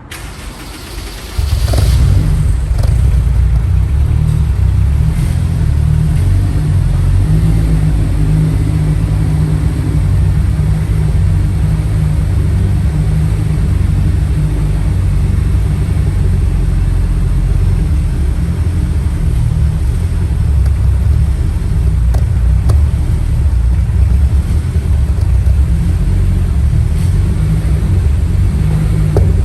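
Honda S2000 four-cylinder engine catching about a second and a half in, then idling with a steady low rumble that wavers somewhat. The car's hard starting and rough idle were traced to a faulty fuel pressure regulator.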